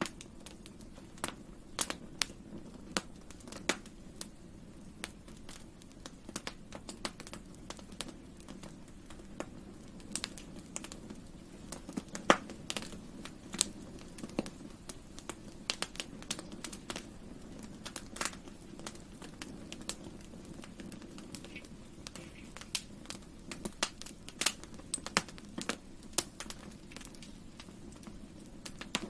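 Campfire burning: irregular sharp crackles and pops from the burning wood over a steady low hiss of the flames, with one louder pop about twelve seconds in.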